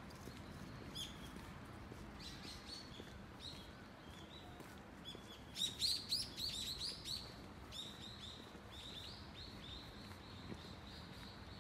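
Small birds chirping: short, high notes that slide downward, loudest in a quick cluster about six seconds in, followed by a string of softer repeated chirps.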